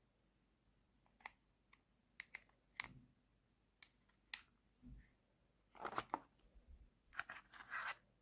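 Small plastic toy pieces being handled: scattered light clicks and taps, a couple of soft thumps as pieces are set down, and two brief rustling bursts near the end.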